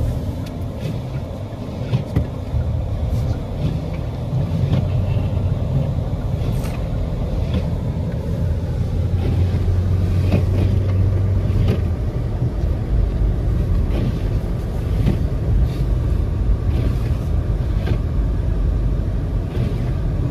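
Car interior noise while driving on snowy roads: a steady low rumble of engine and tyres, deepening somewhat in the second half, with a few faint clicks.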